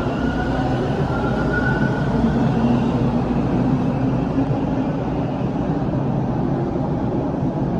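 TTC Line 2 subway train running along the platform with a steady loud rumble of wheels and motors. Its motor whine rises in pitch over the first few seconds, then fades into the rumble.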